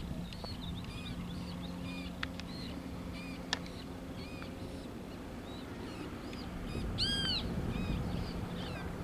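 Birds calling: a rapid series of short, arched, high chirps repeated a few times a second, with one louder, fuller call about seven seconds in. A low steady hum runs underneath.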